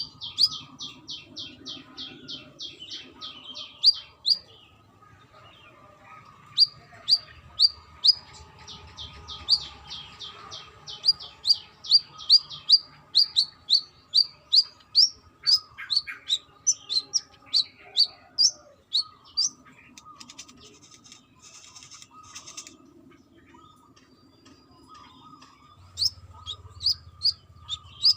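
A brown-throated sunbird singing: fast runs of sharp, high chirps, about three or four a second, in long bursts with pauses between them.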